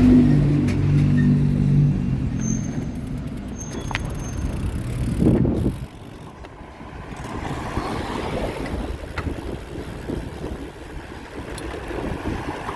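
Road traffic passing: a motor vehicle's engine hums steadily for the first two seconds or so and fades as it goes by. A brief rush about five seconds in is followed by a steady whoosh of wind and road noise.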